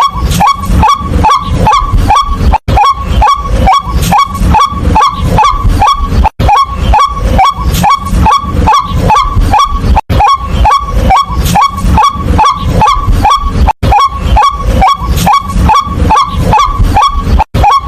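White-breasted waterhen calling a loud, steady series of short 'kwak' notes, about three a second. The series breaks off briefly about every three and a half seconds, then carries on at once.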